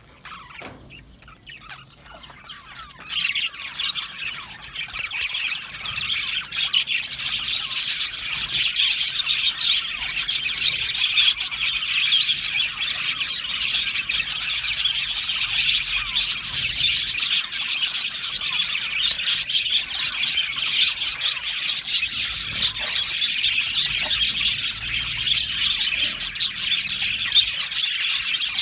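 A flock of budgerigars chattering and chirping together in a dense, continuous warble of many birds at once. It is faint at first, then the chorus jumps louder about three seconds in and stays busy.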